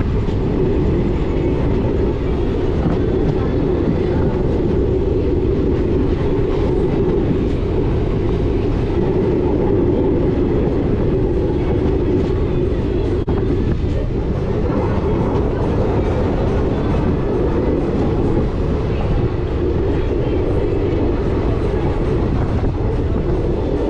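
Moving passenger train heard from on board: a steady, loud running rumble of the coach's wheels on the rails.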